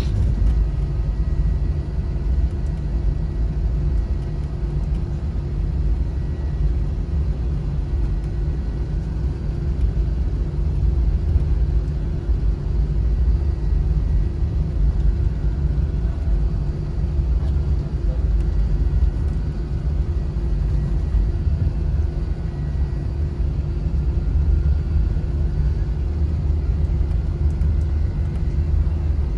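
Jet airliner heard from inside the passenger cabin: a steady low rumble of engines and airflow, with a faint steady hum over it.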